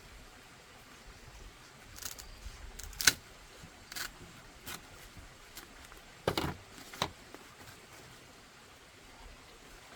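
A few scattered knocks and clicks of something being handled, the sharpest one about three seconds in and another cluster a little after six seconds.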